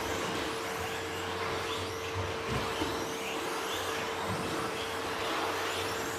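Several electric 2WD RC stadium trucks with 13.5-turn brushless motors racing on a dirt track, their motors whining up and down over a steady noise of tyres and running gear. A steady hum sits under it throughout.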